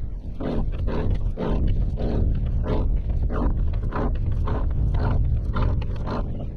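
A man panting and grunting hard, about two strained breaths a second, from the effort of hauling an anchor up by hand. Wind rumbles steadily on the microphone underneath.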